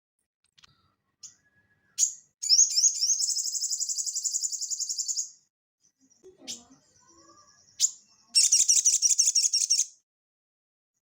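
Sogon (sogok ontong) singing in high, fast trills: a long run of rapid repeated notes lasting about three seconds, a couple of single sharp notes, then a shorter trill of about a second and a half near the end.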